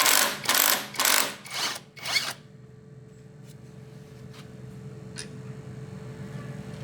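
A tool working in five short rasping strokes, about two a second, which stop after about two seconds. A low steady hum and a few faint clicks are left.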